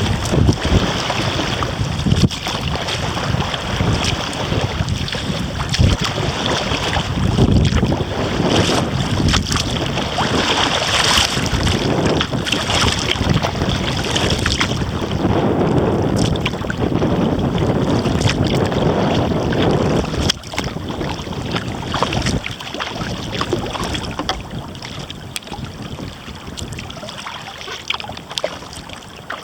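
Wind buffeting the microphone over water splashing and lapping against a kayak as it is paddled. The wind eases after about twenty seconds.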